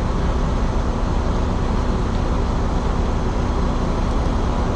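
Steady low drone of an idling truck engine, with roadway traffic noise around it.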